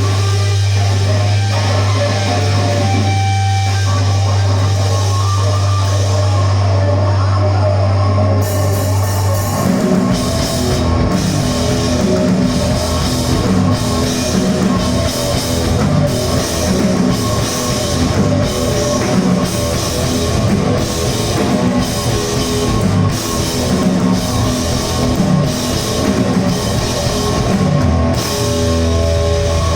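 Heavy rock band playing loud with distorted guitar. A low note is held for about the first ten seconds, then drums and the full band come in with a steady beat.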